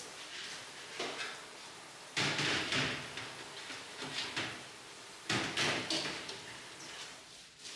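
Commercial kitchen work sounds: irregular clattering and scraping of cookware and trays being handled, in about six short bursts.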